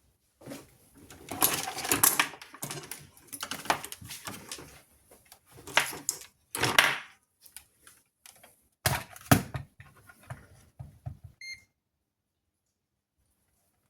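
Handling noise: clattering, rustling and sharp clicks and knocks in irregular clusters, with a brief high beep near the end.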